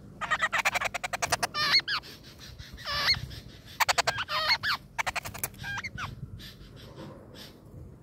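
Nestling birds begging at the nest as an adult feeds them: repeated bursts of shrill chirps mixed with rapid rasping notes, dying down over the last couple of seconds.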